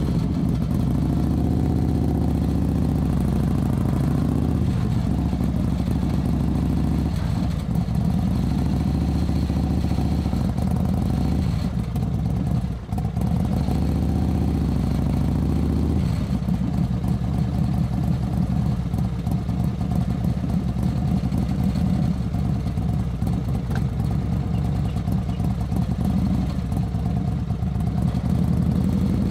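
Suzuki motorcycle engine running on the move, a steady low engine note that shifts in pitch a few times as the bike changes speed, with a brief dip about 13 seconds in.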